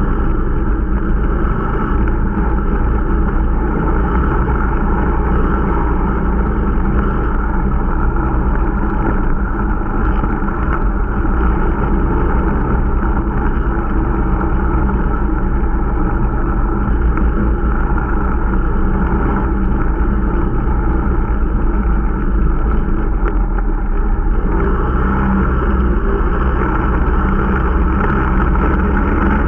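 Irbis Dingo T125 snowmobile's small single-cylinder four-stroke engine running steadily under way, the new engine being run in. It holds a fairly even speed throughout, with a slight change in pitch about 24 seconds in.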